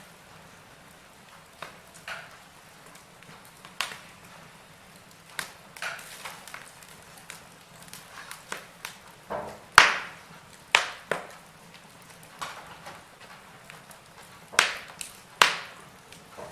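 Logs burning in a fireplace, crackling: irregular sharp pops and snaps over a faint hiss. The loudest pops come about ten seconds in, and two more near the end.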